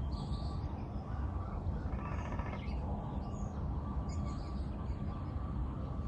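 Birds calling in short, faint chirps over a steady low rumble.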